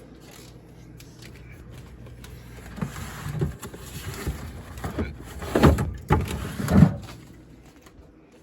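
Hollow plastic knocks and rubbing as a soda can is pushed and shifted inside a small plastic mini fridge, the two loudest knocks about a second apart in the second half.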